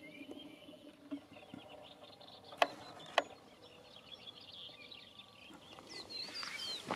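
Small birds chirping and twittering, with a few swooping whistled calls near the end. Two sharp clicks about half a second apart, near the middle, stand out as the loudest sounds.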